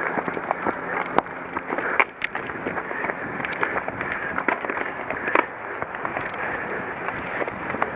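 Cyclocross bike rolling fast over a rough course: a steady rumble of tyres on rough ground, with frequent rattling clicks from the bike and some wind on the microphone.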